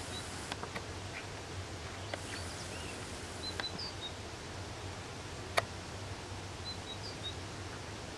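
Outdoor ambience: steady background noise with brief high-pitched bird chirps, a few times in small clusters. A single sharp click about five and a half seconds in.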